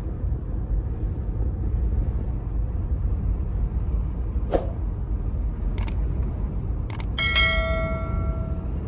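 Car driving: a steady low rumble of engine and road noise. Near the end come two sharp clicks, followed by a steady electronic-sounding tone lasting about a second and a half.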